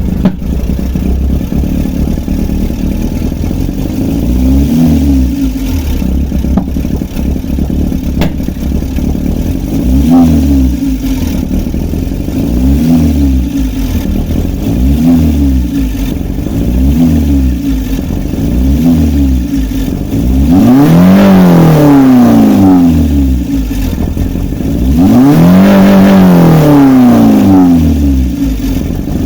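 Toyota engine running with its throttle body removed. It is revved in short blips about every two seconds, then in two longer, higher revs near the end.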